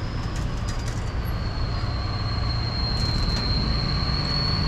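A heavy engine idling steadily, a low rumble with a steady high whine over it and a few light ticks.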